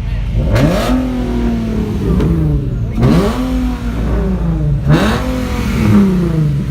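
Car engine being revved repeatedly, about four hard blips, each climbing quickly and then falling back slowly toward idle.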